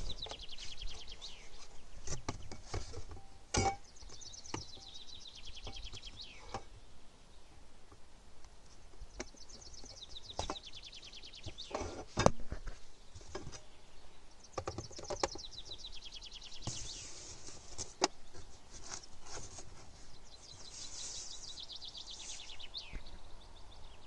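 A songbird singing short, high, rapid trilling phrases again and again, some of them falling in pitch. Between them come scattered knocks and rustles of plastic parts and packaging being handled in a foam-lined cardboard box, with single sharper knocks a few times.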